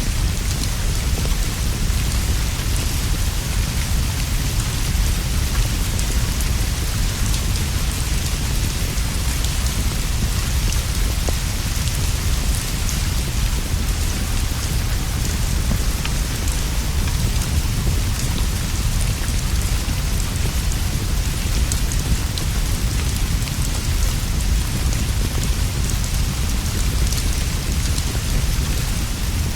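Steady rainfall pattering on leaves and a roof, an even unbroken hiss over a deep low rumble, with scattered faint ticks of drops throughout.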